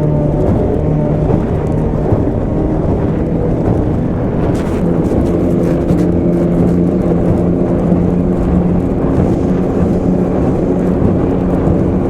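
Two-stroke 25 hp outboard motor running at speed on a small three-point hydroplane, heard on board with water and wind rush. Its note rises slightly about five seconds in.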